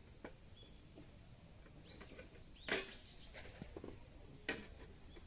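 Scattered light clicks and knocks, with two louder sharp cracks in the second half, and a few short bird chirps.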